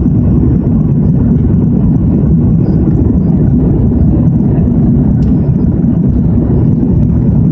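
Cabin noise of an Airbus A330-223 taking off: a steady, loud low rumble of its engines and rushing air.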